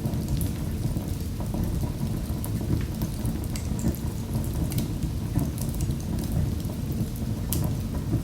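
Wood fire in a fireplace crackling, with sharp, irregular pops and snaps over a steady low rumble of the flames.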